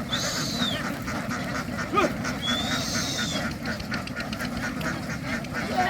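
A large flock of domestic ducks quacking in a dense, continuous din. Two high, arched whistle-like calls rise and fall above it, one at the start and one in the middle.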